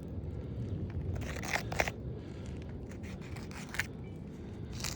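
Scattered gritty scrapes and crunches of contact with granular asphalt roof shingles: a handful of short, sharp scratches over a low steady rumble.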